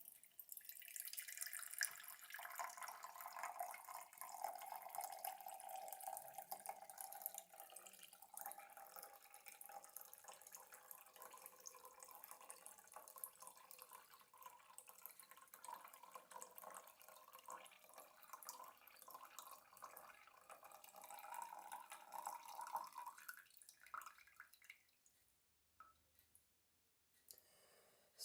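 Faint stream of water pouring out of a Muji kettle into a container, the pitch of the pour rising slowly as the container fills. It thins to a trickle and stops about 24 seconds in.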